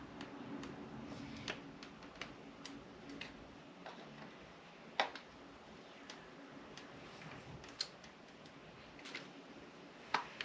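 Scattered light clicks and taps of small hand tools and metal parts being handled at a workbench, the loudest about five seconds in and near the end. A faint steady hum stops about four seconds in.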